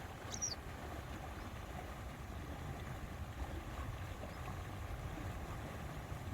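Steady outdoor wind noise rumbling on the microphone, with a single short high chirp about half a second in.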